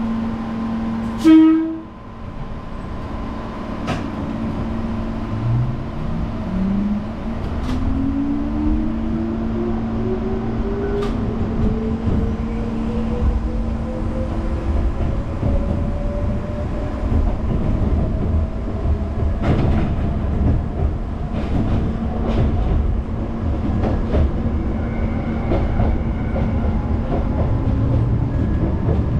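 Electric train pulling away from a station: a short horn blast about a second in, then the motor whine rising steadily in pitch as the train accelerates, with occasional clicks of wheels over rail joints.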